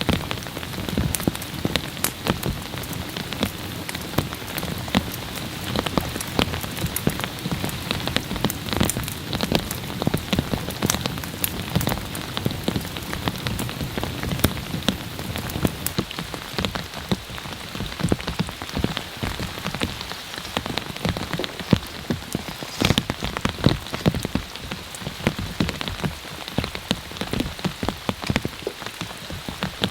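Heavy rain falling on a camping tarp: a dense, steady hiss with many sharp individual drop hits.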